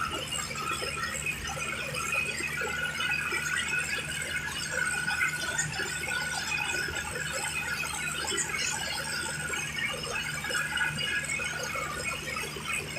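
Tractor engine running steadily, with a continuous high squealing over it.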